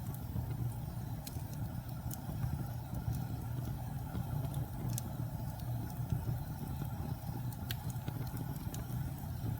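Wood fire burning with a steady low rumble and scattered sharp crackles and pops, a handful across the stretch.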